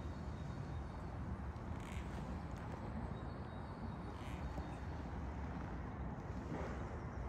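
Royal Enfield Classic 350's air-cooled single-cylinder engine idling with a steady low, even thump.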